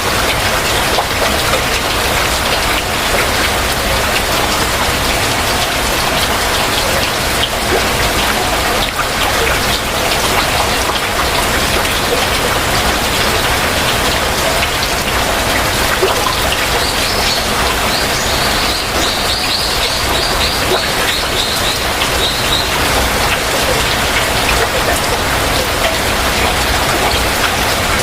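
Heavy rain falling steadily. A little past the middle, a bird gives a run of short high chirps for about five seconds.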